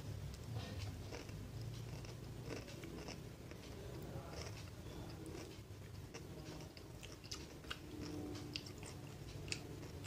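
Close-up eating sounds: chewing and biting, with many short, sharp crunches and wet mouth clicks, of a meal of fried fish and raw vegetables.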